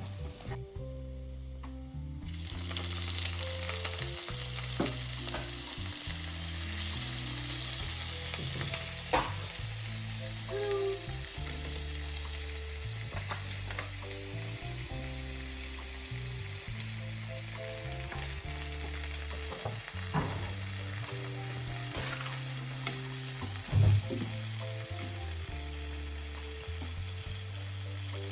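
Water spinach and seafood sizzling in a hot pan as they are stir-fried, the sizzle starting about two seconds in, with occasional knocks of the spatula against the pan. Background music with low sustained notes runs underneath.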